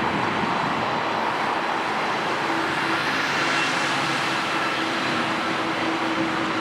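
Jet airliner engine noise: a steady rushing sound with a low hum and a high whine, the high end swelling about halfway through.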